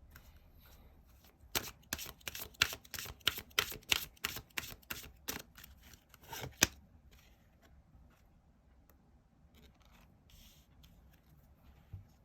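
Tarot cards being shuffled by hand: a quick run of snapping card sounds, several a second, for about five seconds starting a second and a half in, then only faint light rustles.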